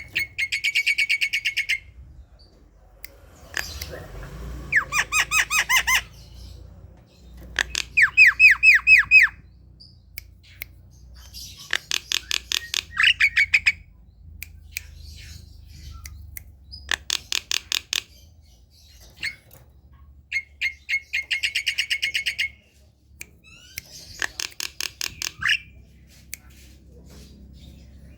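Javan myna singing: about seven bursts of fast, harsh, rattling repeated notes, each one to two seconds long, separated by short pauses, with a few single calls in between.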